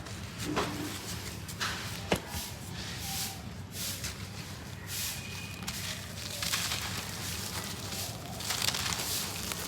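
Gritty cement being crumbled and sifted: irregular gritty crackling rustles coming in uneven bursts, with a couple of sharp ticks in the first few seconds.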